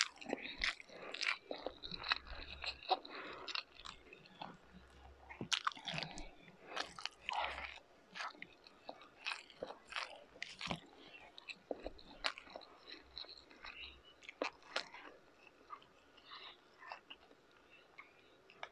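A person chewing and eating beef tapa and pork tocino with rice: a steady run of short mouth smacks and clicks.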